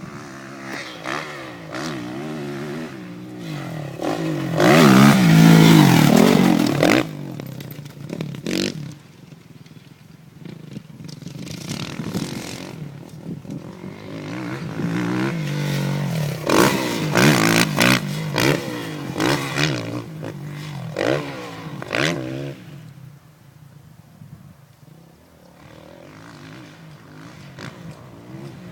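Kawasaki KX450F four-stroke single-cylinder dirt bike engine accelerating hard and backing off again and again, its pitch rising and falling with the throttle. It is loudest about five to seven seconds in, with another run of sharp revs from about sixteen to twenty-two seconds.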